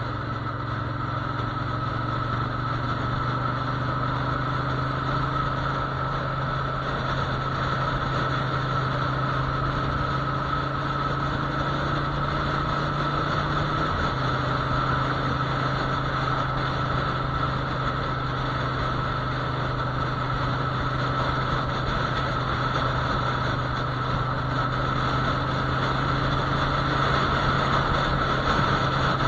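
Motorcycle engine droning steadily at cruising speed under a constant rush of wind noise. The engine hum creeps slightly up in pitch, then drops abruptly about halfway through.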